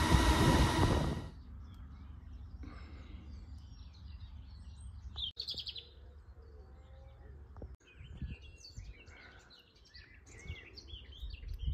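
Wild birds singing, with many short chirps and calls over a faint low background rumble. The first second or so is much louder noise that stops abruptly.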